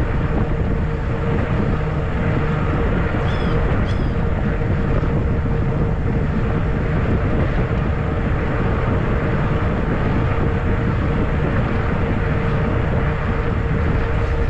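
Wind rushing over the microphone on a moving fat-tire e-bike, mixed with tyre and motor noise and a steady mid-pitched hum. Two short high chirps come about 3.5 and 4 seconds in.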